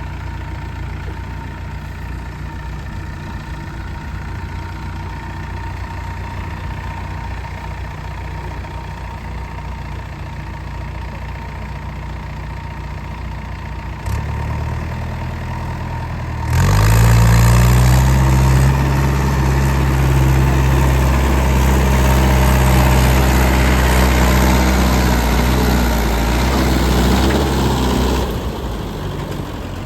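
Tractor diesel engine idling steadily, then throttled up about halfway through and running loud and fast for some ten seconds before dropping back near the end.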